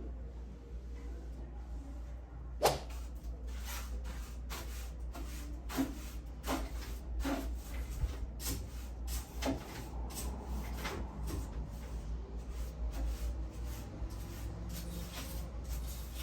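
A series of irregular light knocks and clicks, as of household objects being handled and set down, with one sharper knock a little over two seconds in, over a steady low hum.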